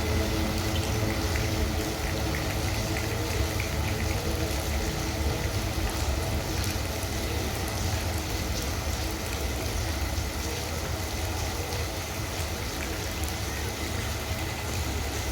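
Heavy rain falling steadily, over the low, steady rumble and hum of a passing MRS freight train hauled by Wabtec AC44i diesel-electric locomotives.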